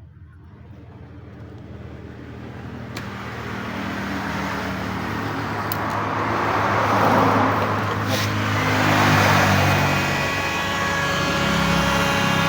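Electric hot-air blower running with a steady motor hum and rushing air, growing louder over the first several seconds, then holding, with a few sharp clicks and a whine near the end.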